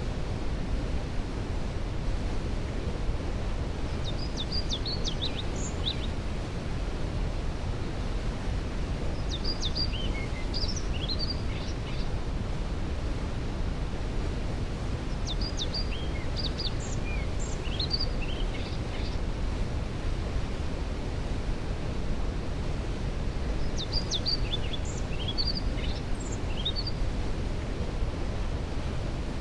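Waterfall rushing steadily, with its constant roar strongest in the low end. A songbird sings short, high chirping phrases over it about four times, roughly every six to seven seconds.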